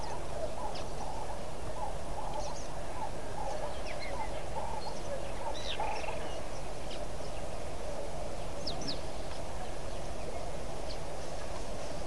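Wild birds calling in short, high chirps scattered every second or so over a steady background of outdoor noise.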